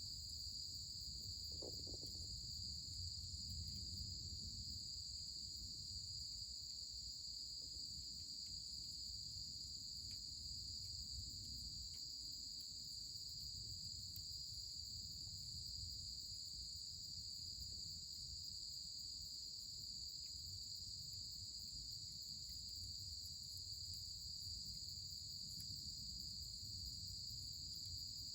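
A steady, unbroken chorus of insects singing in two high-pitched bands, with a low background rumble and a few faint scattered ticks.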